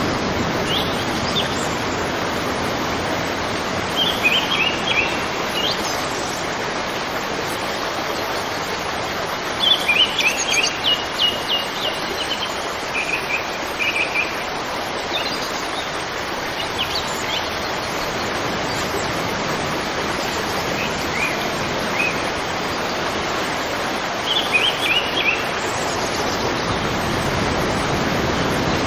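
Steady rush of flowing river water, with a small bird chirping in quick runs of short high notes several times over it.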